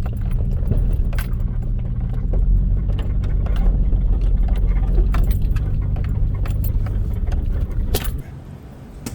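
An off-road vehicle's engine pulls steadily at low speed through a deep creek crossing, with a running clatter of rattles and knocks from the cabin and chassis. The engine eases off sharply about eight seconds in.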